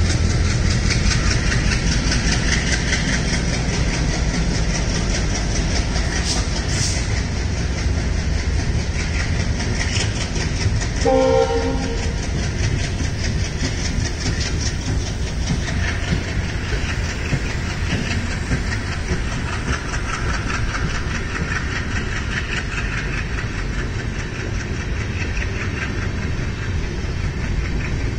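LHB passenger coaches rolling past with a steady rumble, their wheels clattering rapidly over the rail joints. A short horn note sounds about eleven seconds in.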